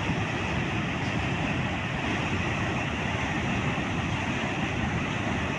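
Hill-torrent floodwater rushing over a canal, a loud steady noise of fast-flowing water.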